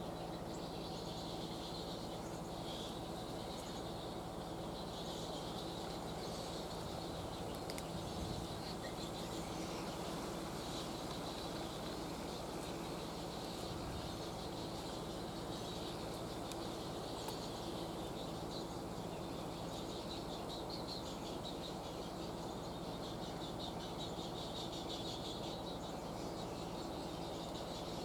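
Steady outdoor ambience: a constant hiss with a faint low hum under it, and a high chirring that swells and fades every few seconds, with faint bird calls.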